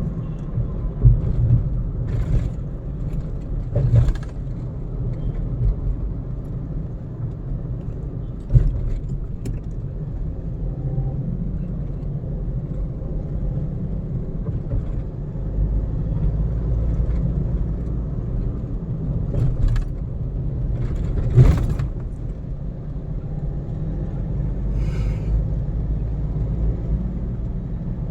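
Car driving along a road: a steady low rumble of road and engine noise, with a few short sharp knocks, the loudest about three-quarters of the way through.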